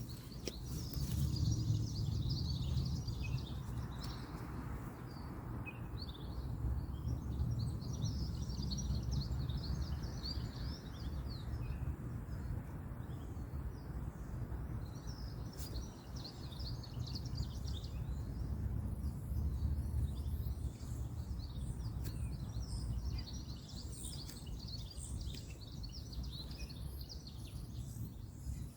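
Many small birds chirping continuously over a steady low rumble of distant road traffic.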